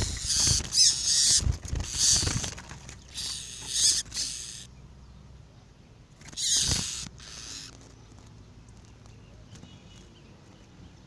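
Double-collared seedeater (coleiro) song in three loud, rapid high-pitched bursts, followed by faint scattered chirps.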